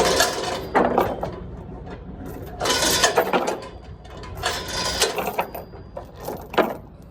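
Steel tie-down chain rattling and clanking as it is handled, in four bursts of a second or less.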